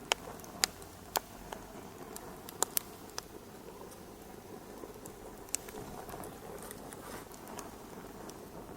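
Wood fire crackling in a fireplace: a steady soft hiss broken by sharp pops, several close together in the first three seconds and a few more later.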